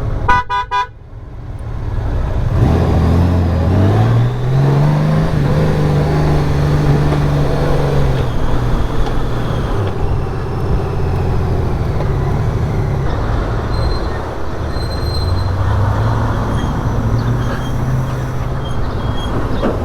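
2018 Honda Gold Wing's flat-six engine accelerating hard, its pitch climbing over a couple of seconds and then holding, easing off about eight seconds in and climbing again near the end, over steady wind and road noise.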